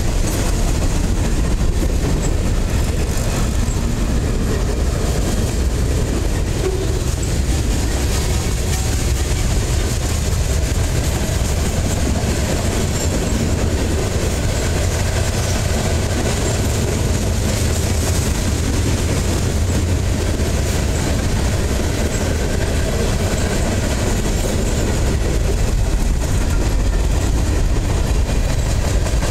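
Freight train cars, boxcars and covered hoppers, rolling past on steel wheels and rails, a steady, unbroken noise that stays loud throughout.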